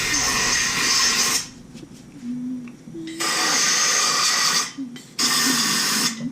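Compressed-air blow gun spraying out the piston bores of a brake caliper. It hisses in three long bursts: the first stops about a second and a half in, the second runs from about three seconds in for a second and a half, and the third is shorter, near the end.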